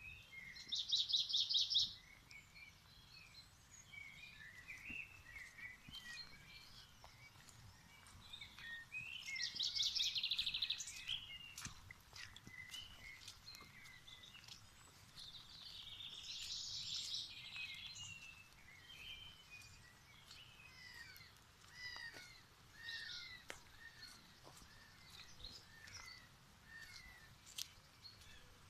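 Wild birds singing and chirping, with three louder rapid trills spread across the stretch and many short chirps between them.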